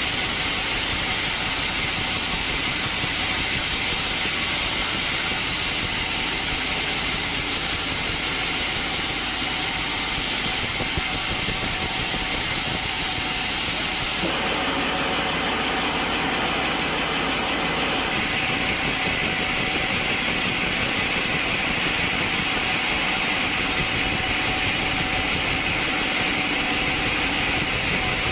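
Sawmill machinery running steadily, a constant mechanical drone with a loud hiss, changing tone abruptly about fourteen seconds in.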